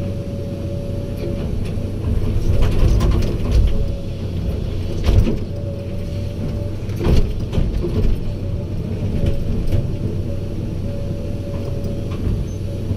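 Heavy diesel earthmoving machinery running steadily, with a constant low hum and a steady whine. Several metallic clanks and knocks come from about two and a half seconds in, the sharpest near five and seven seconds.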